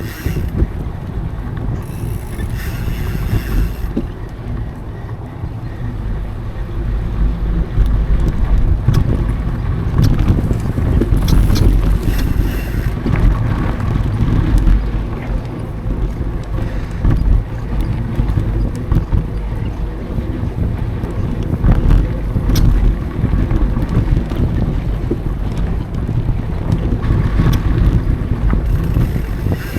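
Wind buffeting an action camera's microphone as a mountain bike rolls along a dry dirt trail, a steady low rumble with scattered sharp clicks and rattles from the bike.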